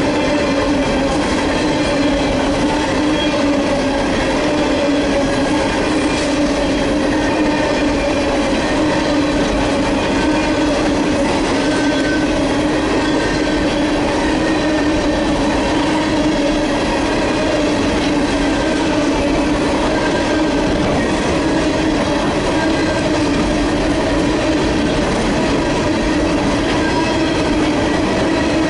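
Freight train rolling past on the rails, a steady, loud rumble of wheels with a held droning tone that wavers slightly in pitch.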